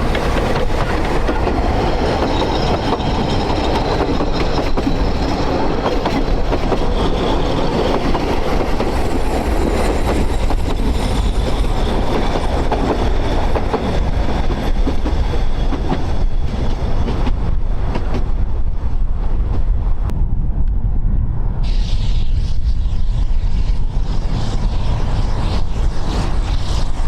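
Narrow-gauge train running along the track: a steady rumble of wheels on rail, with faint high wheel squeal.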